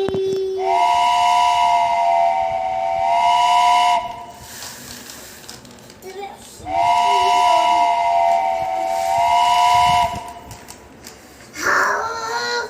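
Toy steam train's electronic whistle: two long three-note chord blasts over a steam hiss, each about three seconds and a few seconds apart, then a brief different sound near the end.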